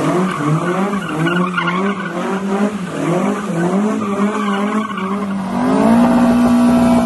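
Ford Escort's engine revving up and down as the car slides, with tyre squeal; the engine note wavers about twice a second, then climbs to a steadier, higher pitch about six seconds in.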